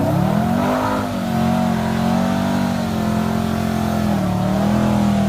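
A high-powered car engine revs up through the first second, then holds a steady high-rpm note, as in a hard pull under load, with a brief dip in pitch about four seconds in.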